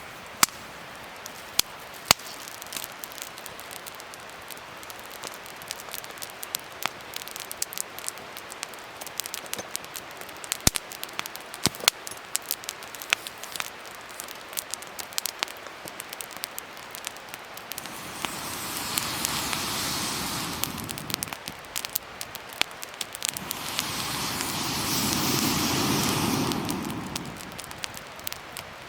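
Wood fire crackling, with many sharp pops over a steady hiss. Two louder rushing swells rise and fade, one about two-thirds through and one near the end.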